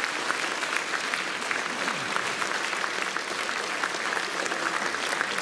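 Concert audience applauding steadily, many hands clapping in a dense patter.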